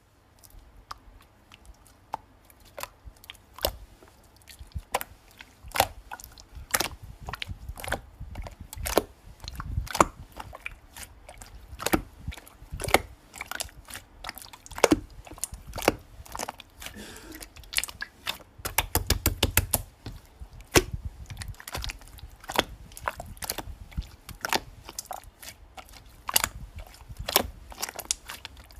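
Slime being squeezed, poked and folded by hand, giving irregular sharp clicks and pops as air pockets burst, with a quick run of many clicks about two-thirds of the way through.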